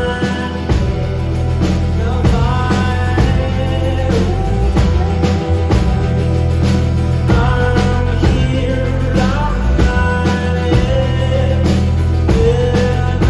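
Live indie rock band playing loudly and continuously, with drums, bass and guitar under a male singing voice.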